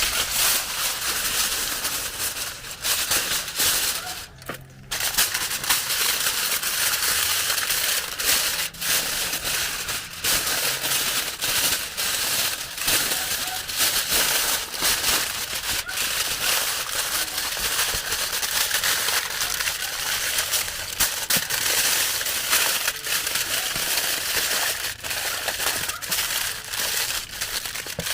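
Food frying in hot oil: a steady, dense sizzle full of small crackles and pops, easing off briefly about four seconds in.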